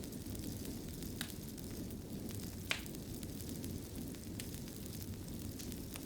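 Wood fire crackling in a fireplace: a steady low rumble of burning with sharp pops, two louder ones about a second in and near the middle.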